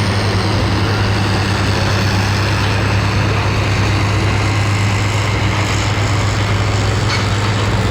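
Pro stock pulling tractor's turbocharged diesel engine running loud and steady at a constant pitch, with a heavy low hum under dense engine and exhaust noise.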